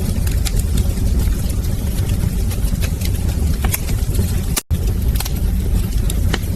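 Wood fire burning in a fireplace: a steady low roar of the flames with irregular crackles and pops of the burning logs. The sound cuts out for an instant about four and a half seconds in.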